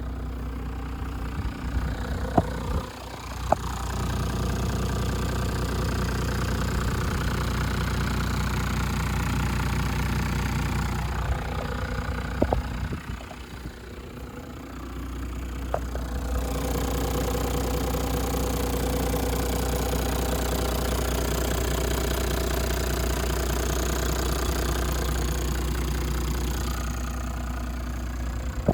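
Toyota Land Cruiser 100 Series 4.2-litre straight-six turbo diesel running steadily, with a few sharp clicks and the engine sound dipping twice briefly.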